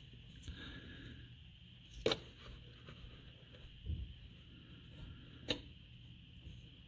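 A few separate sharp clicks and knocks of tools or metal parts being handled, about four of them over a faint steady hum.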